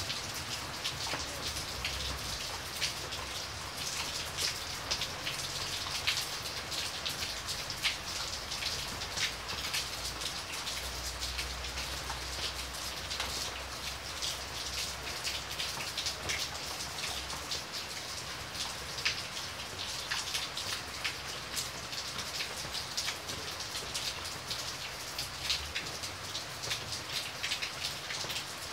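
Heavy rain splashing on hard surfaces close to the microphone: a steady hiss thick with countless individual drop impacts.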